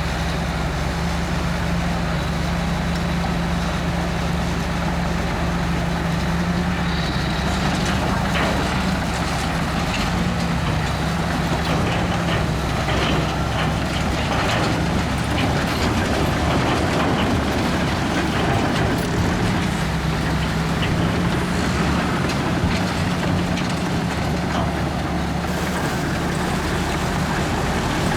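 Komatsu D61EX bulldozer's diesel engine running under steady load. From about a third of the way in, a stretch of irregular clanking and scraping, typical of tracks and pushed rock, runs for around ten seconds before the engine settles back to an even run.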